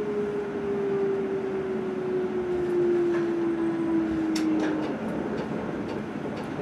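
An electric train running, heard from inside the carriage: a steady rumble with a whine that slowly falls in pitch and fades out about five seconds in. A few sharp clicks come around four to five seconds in.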